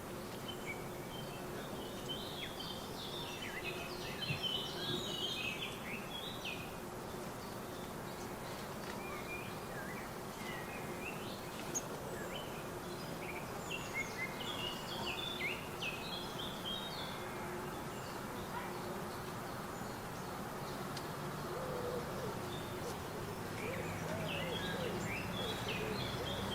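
Small songbirds chirping in several bursts of short, high notes over steady background noise with a faint constant hum. Near the end a lower, wavering sound joins in.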